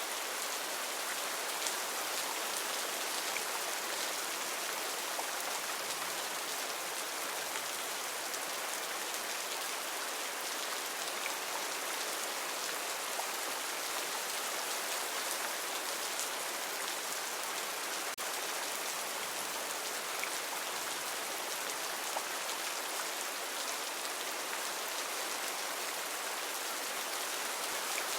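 Heavy rain falling steadily on foliage, a dense even hiss with scattered individual drops ticking through it.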